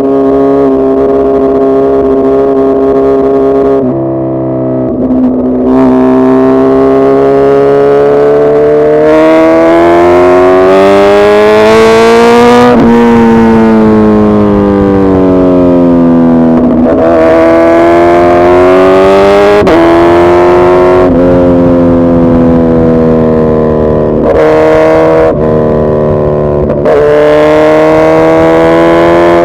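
Suzuki Hayabusa inline-four engine under way, its pitch climbing under throttle and dropping sharply at each gear change. About a third of the way in, a long climb peaks, and then the pitch falls away as the bike slows. It climbs again, and several quick shifts follow in the second half.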